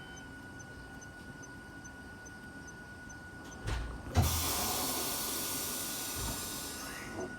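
A thump, then a sudden burst of compressed-air hissing from a Hakone Tozan Railway train's air system that fades over about three seconds and cuts off near the end.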